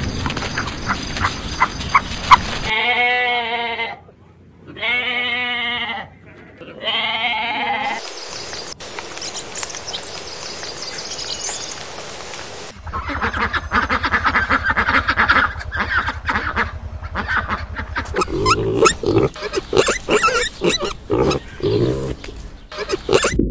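Goat bleating: three long, wavering calls a few seconds in. After them come other animal recordings, noisier and full of clicks.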